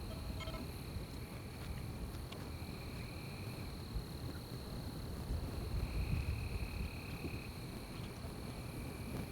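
Night forest insects: one steady high-pitched drone runs throughout, while a second insect sings a few separate trills of a second or two each. Under them is a low rumble that swells around the middle.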